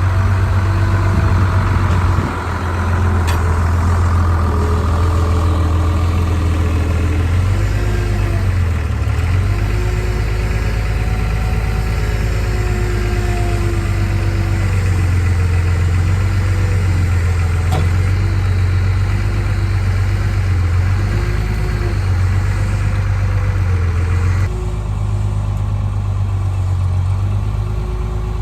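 Farmall 666 tractor engine running steadily as it works, its note shifting now and then, with a drop in level about two seconds in and again near the end.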